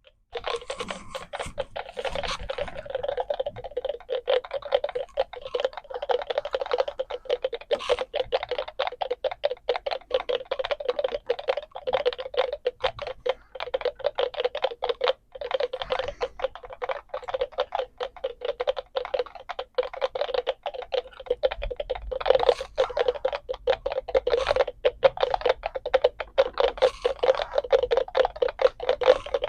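Many NE555 raindrop-sound circuits ticking at once through small speakers: a dense, irregular patter of electronic clicks with a steady hum-like tone around 500 Hz. Each circuit clicks at its own rate set by a potentiometer, together imitating rain.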